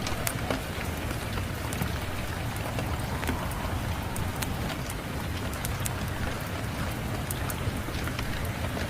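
Steady rain with a wood fire crackling, sharp pops and snaps scattered irregularly through the even hiss.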